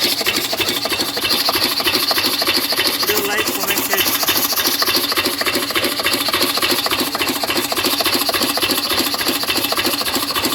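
8 hp single-cylinder diesel engine running steadily with a fast, even knocking beat.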